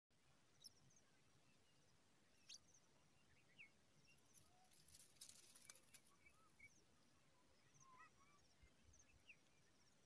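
Faint, scattered short chirps and calls of small birds, with groups of quick high ticks, and a brief rustle of dry grass about five seconds in as the adult bird comes to the ground nest.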